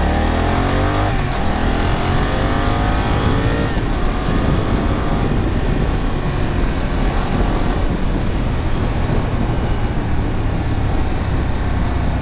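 BMW F 900 XR's parallel-twin engine accelerating hard, its pitch climbing, dropping at an upshift about a second in and climbing again, then settling into a steady high-speed cruise with heavy wind rush.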